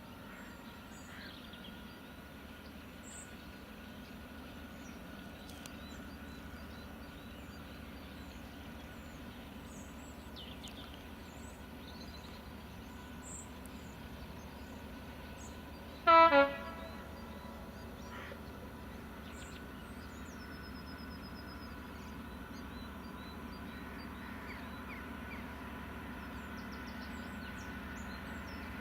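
Class 66 diesel locomotive's EMD two-stroke engine working slowly at the head of a loaded coal train, a steady distant drone that grows a little louder. About halfway through comes one short horn blast. The engine is described as not sounding too good. Birds chirp faintly over it.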